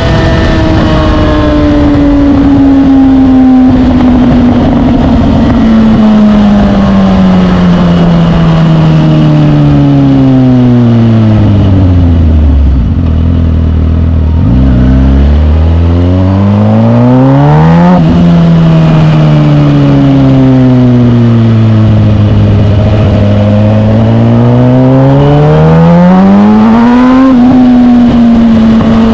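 Suzuki GSX-R1000 K8 motorcycle's inline-four engine, heard from on board while riding. The engine slows down almost to idle, then revs up hard with a sudden drop in pitch that sounds like a gear change. It eases off and revs up again, with another shift near the end.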